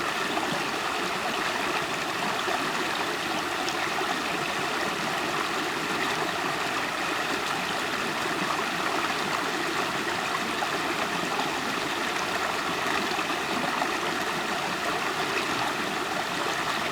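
River water flowing and gurgling over stones, a steady rushing with no change in level.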